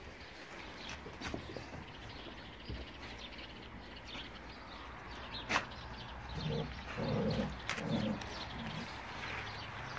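Birds chirping faintly and repeatedly, with a sharp click about five and a half seconds in and a few short, low-pitched sounds between about six and a half and eight and a half seconds.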